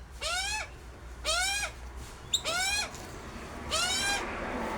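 A bird giving a harsh, drawn-out call four times, a little over a second apart, each call rising then falling in pitch. A brief rapid ticking comes between the second and third calls.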